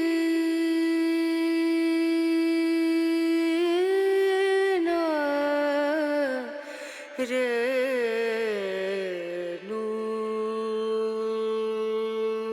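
A singer's wordless, hummed line in an Indian classical-style song. The notes are held long, with slow glides and wavering ornaments between them, and the line steps down to a lower held note near the end.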